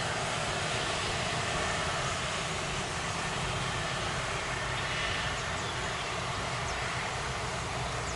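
Jet airliner engines running, a steady even roar without change in level.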